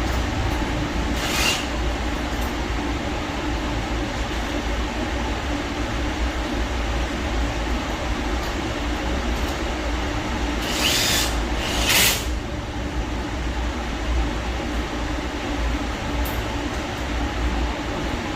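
Keyang cordless drill driver running steadily under load, driving a self-drilling ceiling-type anchor into the ceiling: a continuous low rumble. It is broken by a few short harsh scraping bursts, one about a second and a half in and two close together about two-thirds of the way through.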